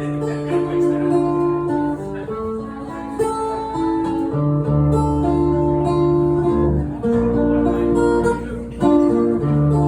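Acoustic guitar music played live: chords strummed over held low notes, changing every second or so.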